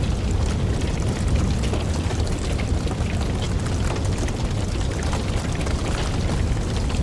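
Wood fire burning, with many small, irregular crackles and pops over a steady low rumble.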